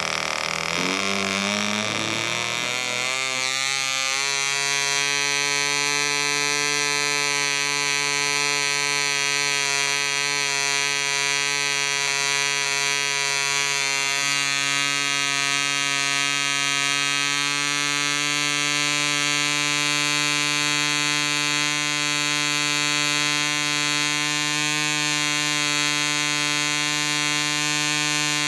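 PAW 0.5 cc model diesel engine running: over the first three or four seconds its pitch wavers and climbs as it picks up speed, then it settles into a steady, high-pitched run at full speed.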